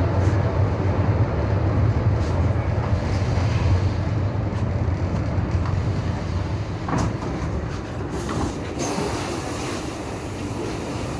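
Train wheels running on the rails: a steady rumble with a few sharp clicks about two-thirds of the way through, easing off a little toward the end.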